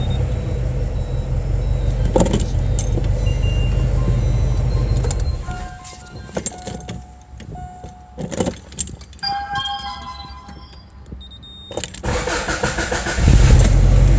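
Car engine idling, then going quiet about five seconds in; clicks, a jingle of keys and a few short beeps follow, and near the end the engine is cranked and starts again, running loud. The engine is on old oil due to be changed.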